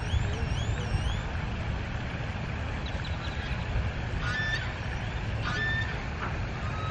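Birds calling outdoors over a steady low rumble: a quick run of repeated rising-and-falling chirps in the first second, then a few short calls.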